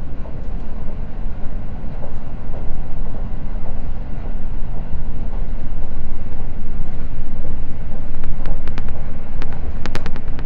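Seibu Red Arrow limited express running at speed, a steady low rumble of wheels and motors heard from inside the carriage. A quick run of sharp clicks comes near the end.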